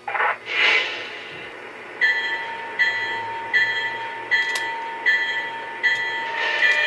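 Model Union Pacific diesel locomotive's sound system starting up: a short air hiss, then the locomotive bell ringing steadily, about one strike every three quarters of a second, over a faint low engine hum, with another air hiss near the end.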